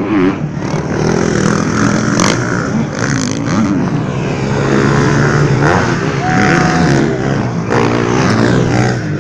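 Motocross bike engines revving hard, several overlapping, their pitch rising and falling continuously, with a few sharp cracks mixed in.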